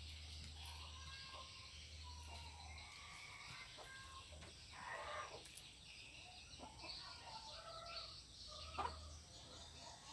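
Faint, scattered bird calls, with one short louder sound about nine seconds in.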